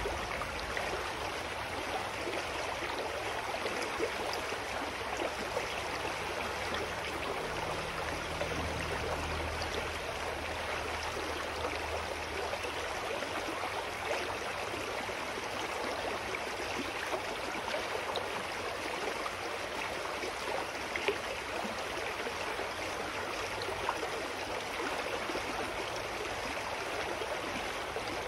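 Clear forest stream flowing, a steady babbling of water.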